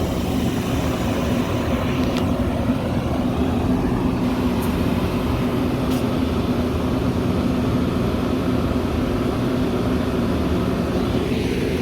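Metra commuter train giving a steady low drone: a few even hum tones under a rushing noise.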